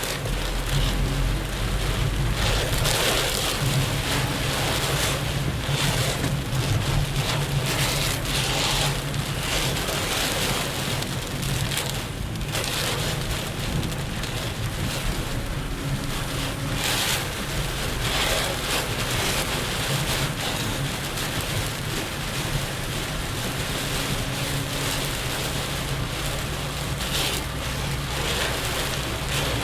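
Heavy rain pelting a moving car, heard from inside the cabin, over a steady low hum of engine and tyres on the wet road. Several brief louder rushes of water come and go along the way.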